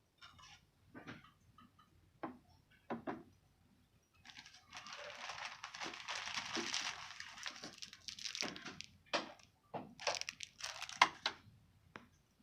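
Plastic packaging crinkling and rustling for about four seconds in the middle, with sharp clicks and knocks before and after it and another short burst of crinkling near the end.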